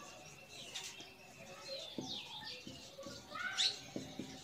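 Faint chirps of small birds, short high calls that slide down or up in pitch, with a few light taps of a marker on a whiteboard.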